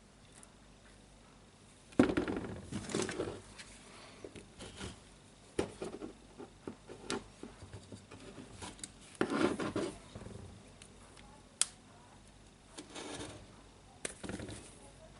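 Clatter and scraping of hand tools against a small jigsaw motor as it is worked open, with a sharp knock about two seconds in and scattered clicks and short rattles after.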